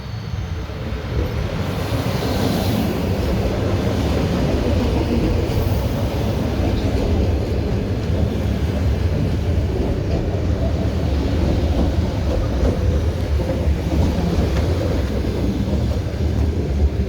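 Train rumbling steadily along the track, building up over the first couple of seconds and then holding.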